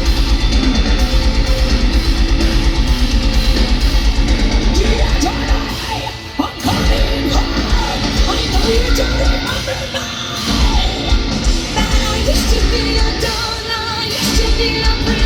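Heavy metal band playing live, with distorted guitars and a fast, pounding kick drum for the first five seconds. The band drops back briefly around six seconds in, then a female vocalist's singing and screaming come in over the full band.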